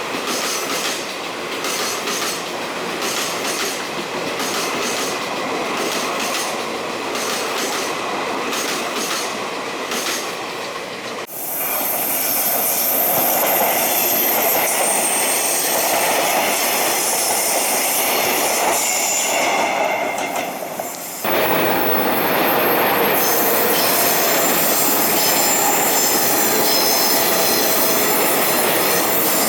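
Taiwan Railway train hauled by two electric locomotives passing close by: for the first eleven seconds its wheels knock in a steady rhythm over the rail joints; then the sound changes abruptly and high thin wheel squeal rises over the rumble of the passing cars.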